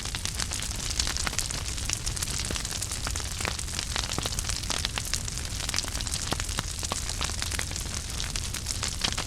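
Wood fire in a fireplace crackling: many small, sharp, irregular pops over a steady hiss and a low rumble.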